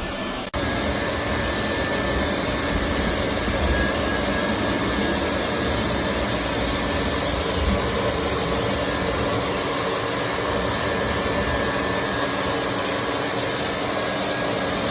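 A vacuum used for dryer-vent cleaning runs steadily, a loud rush of air with a constant whine. It cuts in abruptly about half a second in.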